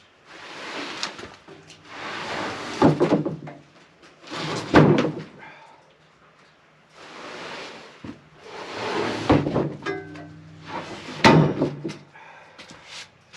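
Heavy spruce lumber being handled: repeated scraping slides, several ending in a hard wooden knock, the loudest about five seconds in and again near the end.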